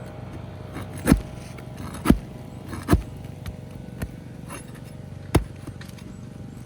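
Five sharp knocks about a second apart from a hand tool working under asphalt shingles to free the roofing nails, over a steady background hum.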